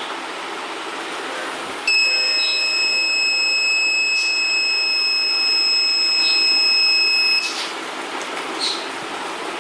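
Electronic warning buzzer sounding one steady high-pitched tone for about five and a half seconds, starting about two seconds in and cutting off suddenly, over a steady background hiss.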